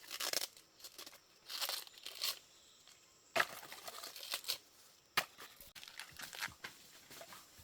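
Irregular bursts of tearing and crinkling, several separate rips and rustles, with the loudest starting about three and a half seconds in.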